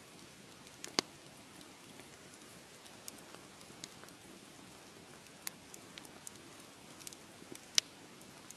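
Wood fire in a fireplace crackling: a steady soft hiss with sharp pops scattered through it, the two loudest about a second in and near the end.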